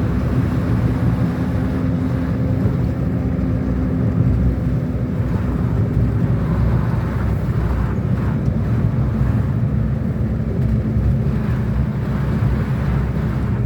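Car running on the road, its steady engine and road noise heard from inside the cabin.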